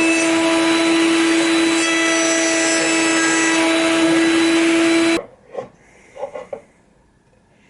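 Electric power-tool motor running steadily at a constant high hum, then cut off suddenly about five seconds in. A few light knocks follow.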